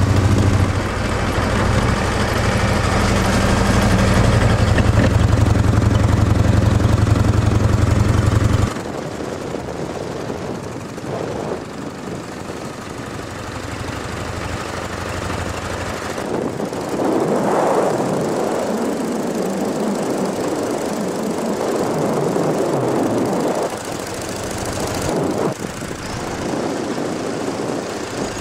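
1935 Morgan three-wheeler on the move, its engine running with a loud, steady low rumble. About nine seconds in the sound drops suddenly to a quieter mix of engine and air rush that rises and falls.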